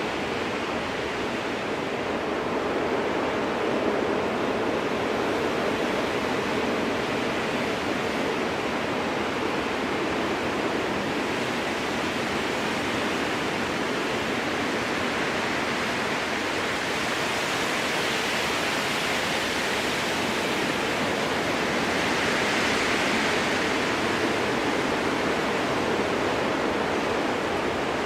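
Strong wind blowing through a spruce forest, a steady rushing that swells into a stronger, brighter gust about two-thirds of the way through.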